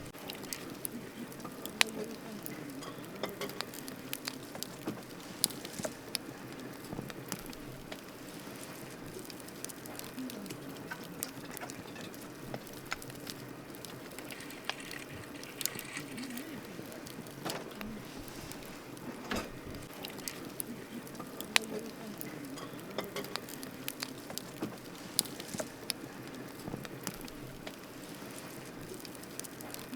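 Wood campfire burning, crackling with irregular sharp pops, a few much louder than the rest, over a steady hiss.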